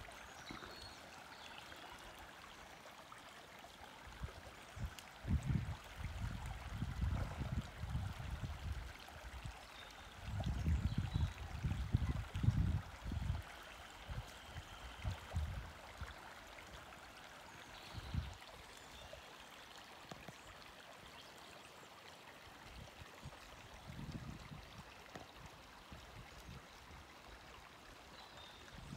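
Faint, steady running water like a small stream, with irregular low rumbles coming and going, loudest in the first half.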